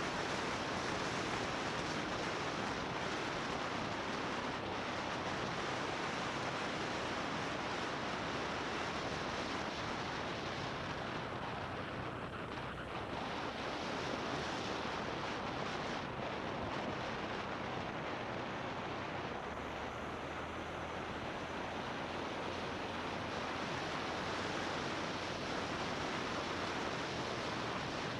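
Steady rush of wind over an action camera's microphone on a moving motorbike, an even noise with no clear breaks.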